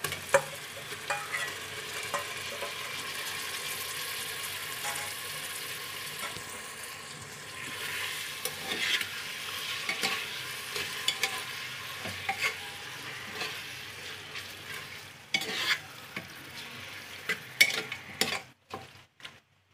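Marinated chicken sizzling as it is added to hot tomato-onion masala in an aluminium pressure cooker and stirred, a steady frying hiss with frequent clinks and scrapes of a steel spoon against the bowl and pot. The sizzling dies down near the end, leaving a few clinks.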